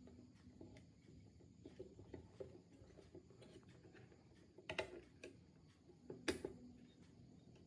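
Faint scattered small clicks and taps of small hard parts being handled, with two sharper clicks a little under five seconds in and again about six seconds in.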